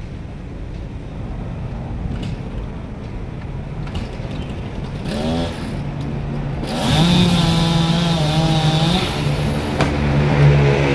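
Two-stroke chainsaw: after a low engine rumble, the throttle is opened about halfway through, the pitch rises, and the saw runs at full speed for about two seconds before dropping back to a lower, steadier running note.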